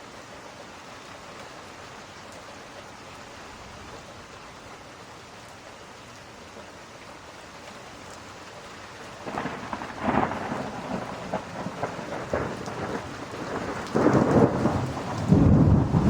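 Steady rain falling, then thunder rolling in about nine seconds in, a rumble that grows louder and heavier toward the end.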